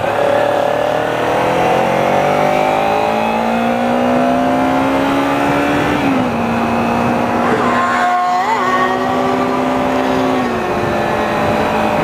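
Kawasaki Ninja 300 parallel-twin engine pulling on the road, its pitch climbing slowly under acceleration until a gear change about six seconds in drops it. It then holds steady and eases off near the end, over steady wind and road noise.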